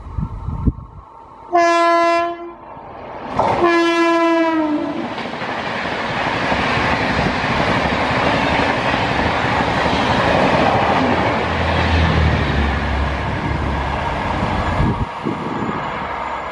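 Electric locomotive horn sounding twice, a short blast then a longer one whose pitch drops slightly as it passes. Then the loud rush and wheel-on-rail clatter of a high-speed passenger train's coaches going by, ending abruptly a second or so before the end.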